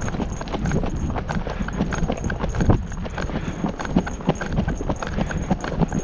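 Hooves of two ridden horses clip-clopping in a steady run of strikes, several per second.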